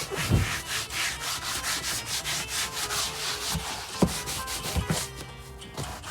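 Brisk back-and-forth scrubbing, about three or four strokes a second, with a few low knocks along the way.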